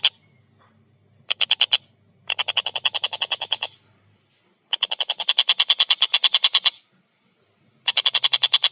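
Tengkek buto kingfisher calling in fast rattling bursts of about ten sharp notes a second, four bursts with short pauses between, the last starting near the end.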